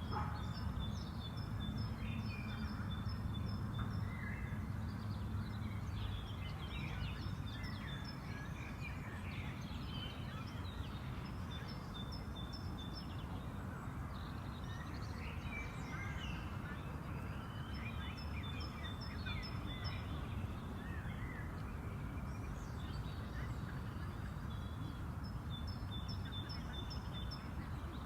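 Several songbirds singing, one repeating a short phrase of rapid high notes every few seconds, over a steady low background rumble.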